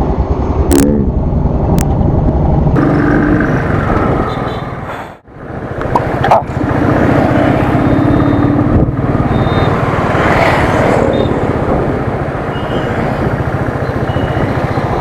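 Royal Enfield Thunderbird's single-cylinder engine running while riding, a steady low exhaust beat mixed with wind and traffic noise. The sound drops out briefly about five seconds in.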